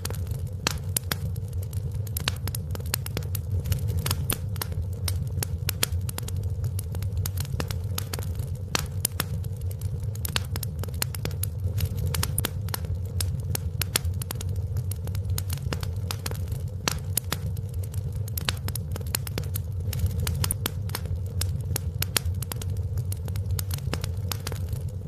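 Fire in a fireplace crackling: dense, irregular pops and snaps over a steady low rumble.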